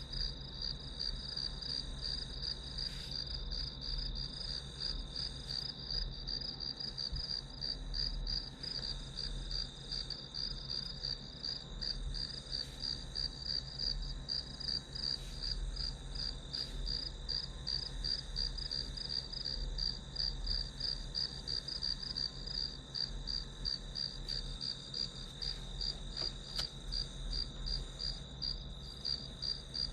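Crickets chirping in a steady, rapid pulsing rhythm over a continuous high trill, with a faint low hum underneath.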